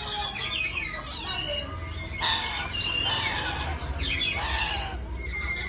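A nuri Ambon parrot squawking in harsh bursts, three times, between shorter chirping and whistling calls.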